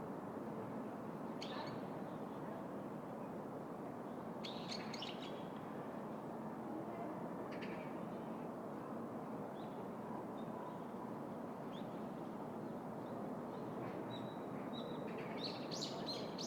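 Steady city-park background hum, with birds chirping in short calls every few seconds, busiest near the end.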